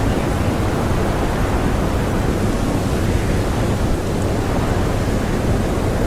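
Strong blizzard wind blowing steadily: a dense, even rush, deepest and loudest in the low end, with no gusts or breaks.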